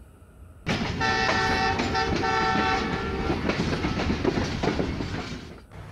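Train horn sounding a chord of several steady tones for about two and a half seconds, over the rumble and rhythmic wheel clicks of a moving train. The sound starts suddenly under a second in, and the horn stops a little past the middle while the train noise carries on and fades near the end.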